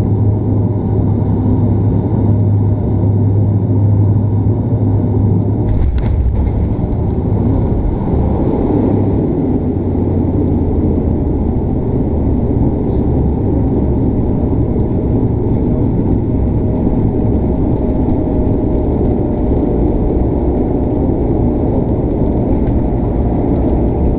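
Cabin noise of a Bombardier Dash 8 Q400's turboprop engines and propellers during landing: a loud, steady propeller drone. About six seconds in there is a brief jolt, and the drone drops lower and becomes rougher.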